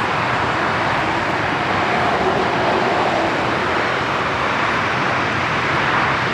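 Jet engines of a Boeing 737-800 (CFM56-7B turbofans) running: a loud, steady rushing noise with a faint whine through it.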